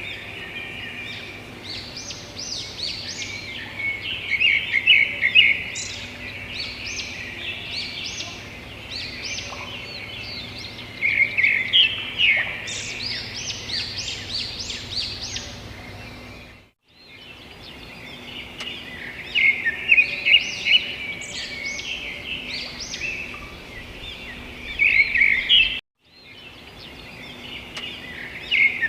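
Many birds chirping together, a dense run of short, high calls over a steady background hiss. The sound cuts out briefly twice, about two-thirds of the way through and again near the end.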